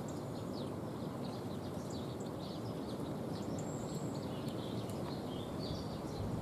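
Small woodland songbirds calling: a scatter of short high chirps throughout, with a couple of brief thin whistled notes in the middle, over a steady low background rumble.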